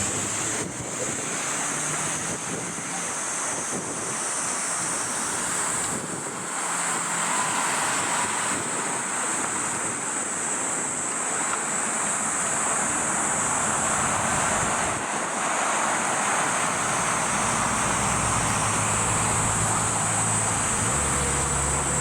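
Airbus A350-900's Rolls-Royce Trent XWB jet engines running, a steady rushing roar with a constant high hiss, growing a little louder in the second half.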